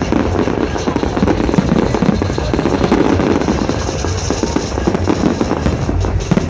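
Fireworks popping and crackling in quick succession over loud electronic dance music with heavy bass.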